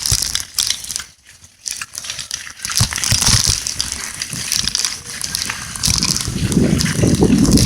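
Bicycle tyres rolling over a rough dirt road: a crackling, crunching noise with many small knocks, dropping away briefly about a second in.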